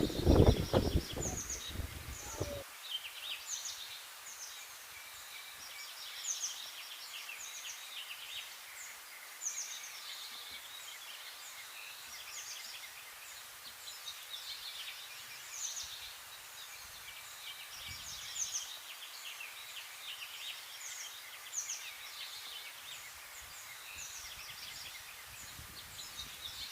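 A chorus of small birds chirping and twittering, with many short, high calls overlapping throughout. A loud low rumble fills the first two and a half seconds.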